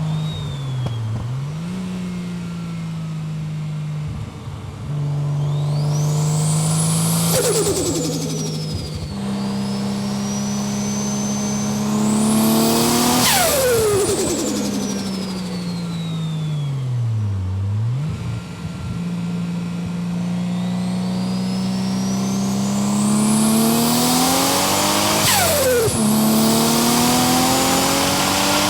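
GT-R twin-turbo straight-six in a Datsun 240Z running hard on track. A high turbo whine climbs over several seconds and then falls away sharply, three times, while the engine note holds steady. The engine note dips briefly twice, about a second in and midway through.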